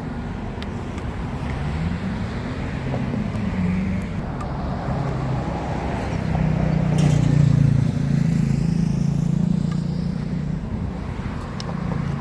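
A motor vehicle engine running close by, its low hum rising in pitch about two seconds in and growing loudest about seven seconds in before easing off, like traffic passing.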